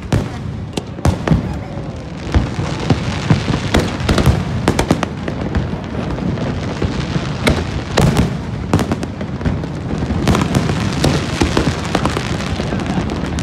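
Aerial fireworks bursting in quick succession: a dense, continuous run of bangs and crackles, several a second.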